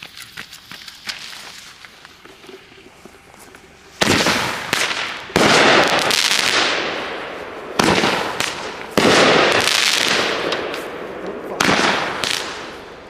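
500-gram consumer firework cake firing its shots: first a few seconds of faint pops and crackling, then about four seconds in, five loud shots come one to two and a half seconds apart, each trailing off in a fading crackle.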